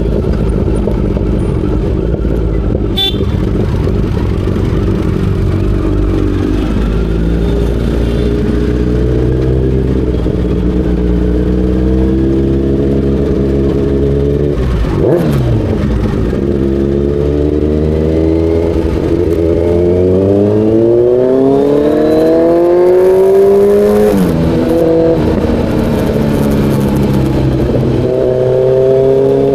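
Kawasaki Z900's inline-four engine under way. It runs steadily at first, then revs up with a climbing pitch over several seconds, drops sharply at a gear change, and climbs again near the end.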